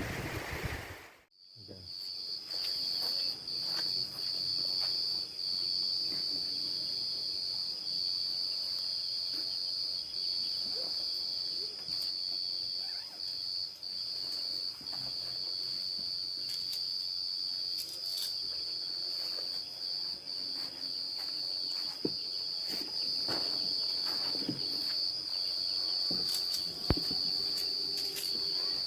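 A short rush of noise cuts off about a second in. Then a steady, high-pitched insect drone holds, broken only by brief momentary gaps, with a few faint clicks and knocks.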